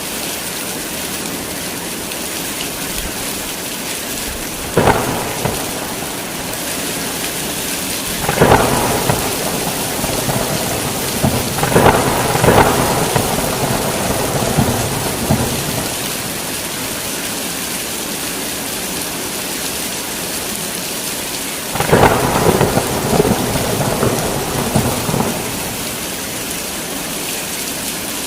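Heavy rain falling in a steady hiss, with thunder: a sharp crack about five seconds in, then two longer rolling peals, one in the middle and one near the end.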